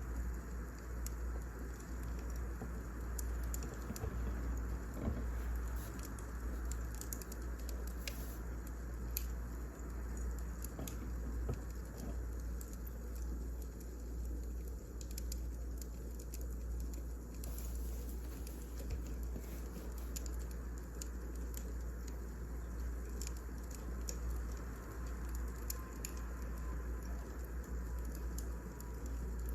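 Wood fire burning in a fireplace: scattered crackles and pops over a steady low rumble.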